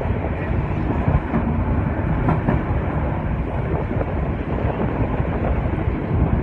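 Steady rumble of a passenger train running along the track, with faint clicks of wheels over rail joints.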